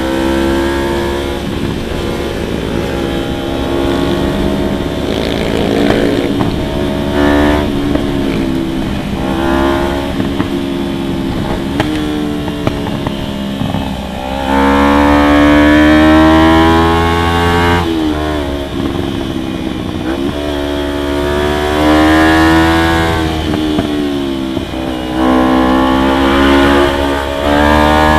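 Motorcycle engine running under way, its pitch climbing and dropping again several times as it accelerates and shifts gears, over steady road and wind noise.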